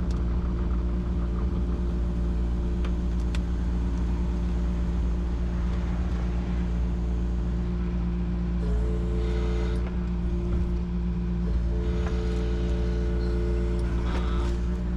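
Yanmar SV40 mini excavator's diesel engine running steadily. A higher steady tone joins it about nine seconds in, drops out briefly, and comes back about twelve seconds in.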